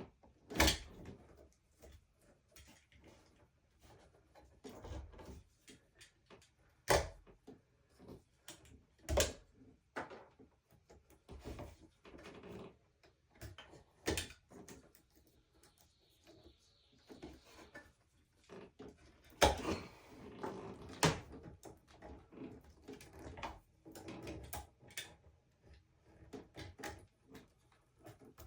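Irregular knocks, clunks and clicks of hand work: tools and materials being handled and set down, with a handful of sharper knocks spread through and softer rustling between them.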